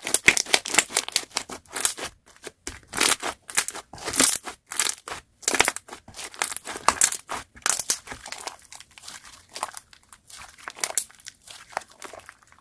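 Slime being squished and stretched by hand, making a dense run of short, irregular crackling pops that grow quieter near the end.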